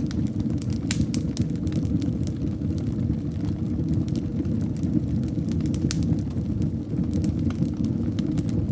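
Fireplace fire burning with a steady low rumble of flames and scattered sharp crackles and pops, one louder pop about a second in and a cluster of them near the end.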